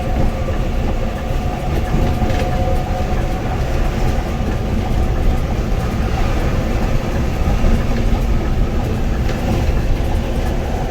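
Steady drone inside a moving Scania bus: engine and road noise, with a few light rattles and knocks.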